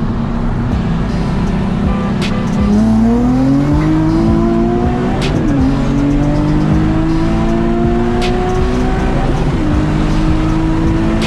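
Car engine under hard acceleration: its pitch climbs steadily through the gears, dropping briefly at a gear shift about halfway through and again near the end.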